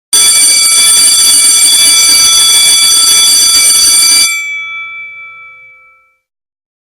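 Electric alarm bell ringing continuously for about four seconds, then cut off, its metal gong ringing on and fading away over the next two seconds.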